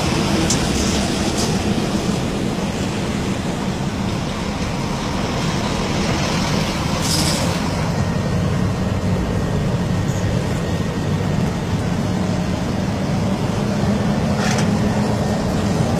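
Heavy truck's diesel engine and road noise running steadily from inside the cab. Short hisses of air come twice, about halfway through and near the end.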